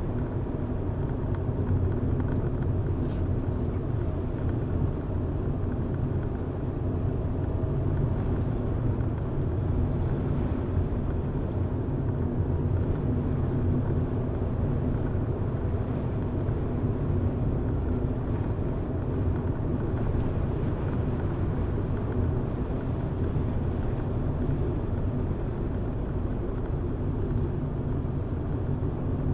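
Car driving at a steady pace: a constant low rumble of engine and tyre noise with no changes in speed.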